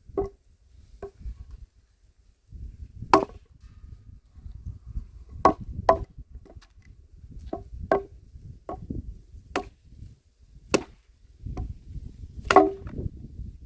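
Homemade axe chopping wood into firewood: about a dozen sharp, irregularly spaced blows into the wood, the hardest one near the end.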